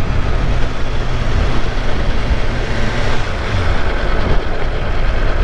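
BMW S1000RR inline-four sport bike being ridden at speed, its engine running under a heavy, steady rush of wind noise on the microphone.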